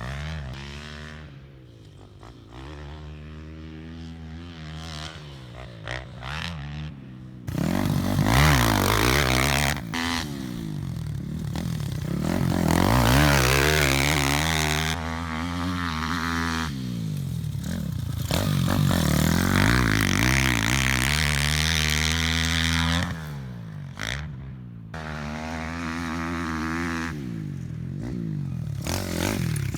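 Piranha P190R pit bike's 190cc four-stroke single-cylinder engine revving hard and backing off again and again as it is ridden around a motocross track. It is quieter for the first few seconds, much louder from about a quarter of the way in, and dips briefly near the end.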